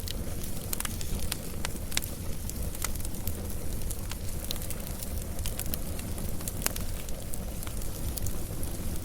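Wood campfire burning steadily, a low rumble of flame with frequent irregular crackles and pops.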